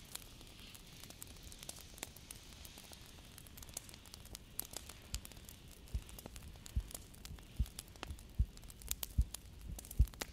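Soft, irregular crackling like a wood fire burning low, and from about five seconds in a slow, regular heartbeat thumping about once every 0.8 s, growing louder near the end.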